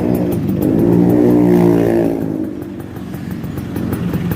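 Yamaha Fiz R two-stroke motorcycle engine breathing through a stainless racing exhaust, revved once: the pitch rises and falls over about two seconds, then settles back to a ticking idle.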